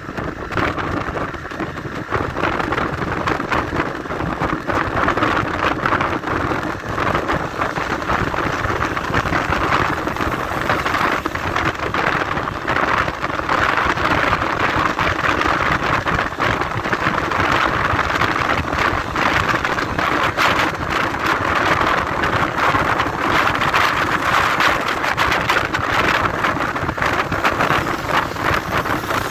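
Riding noise from a moving motorcycle: wind rushing and buffeting over the microphone on top of the engine and road noise, steady with constant crackle.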